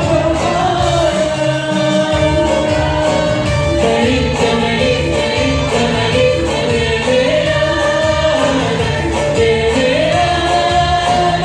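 Live Sudanese hymn performance: a group of singers carrying the melody together over a band with a steady beat.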